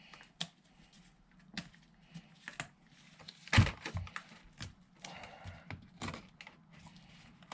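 Handling noises: scattered light clicks and knocks of small objects being picked up and set down, with one louder knock about three and a half seconds in and a short rustle later on.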